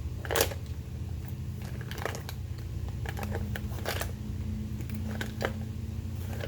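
Scattered clicks and knocks of small makeup containers being handled and set down, the loudest about half a second in, over a steady low hum.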